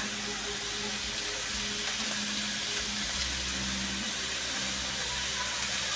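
Chicken sizzling steadily in a pan with soy sauce just added, an even hiss.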